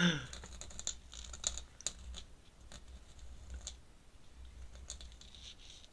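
Ink pen scratching on sketchbook paper in short, irregular strokes, with faint ticks as the nib touches down.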